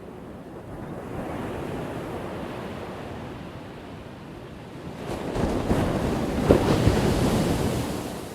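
Ocean waves breaking on a shore: a smaller wave swells about a second in, then a bigger, louder wave crashes from about five seconds and fades near the end.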